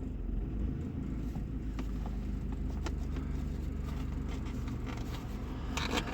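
Suzuki Baleno's engine running, heard from inside the car as a steady low rumble, with a few faint ticks over it.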